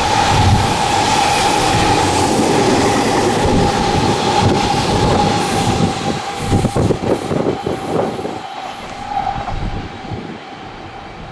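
Electric train passing at speed, a loud steady rolling rush with a steady high tone through it. Wheels clatter over rail joints about six to eight seconds in as the last cars go by, then the sound falls away.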